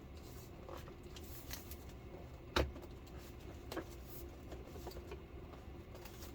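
Light scattered clicks and taps of plastic parts being handled as an LCD TV's plastic bezel is fitted back around the screen, with one sharper click about two and a half seconds in.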